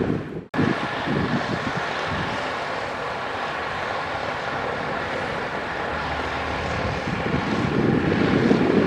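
Heavy earthmoving machinery's diesel engine running steadily, briefly cut off about half a second in, then swelling louder near the end.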